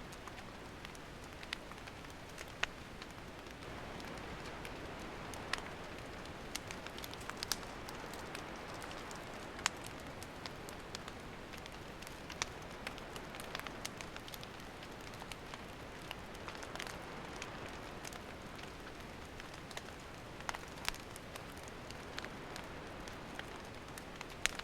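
Wood campfire burning with a steady soft hiss and frequent sharp pops and snaps from the firewood.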